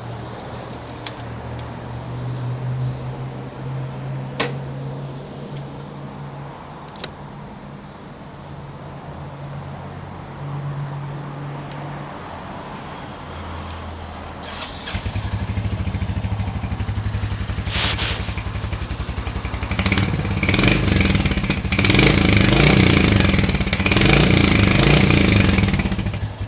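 Royal Enfield Hunter 350's single-cylinder engine starting about halfway in, with a fast even thump through the exhaust at idle, then revved in several short blips. Before it starts, a fainter low engine hum is heard.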